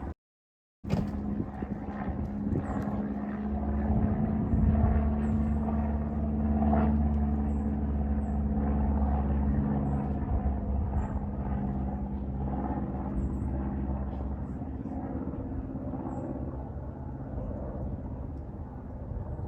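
Aircraft passing over, a steady rumble that builds over the first few seconds and then slowly fades.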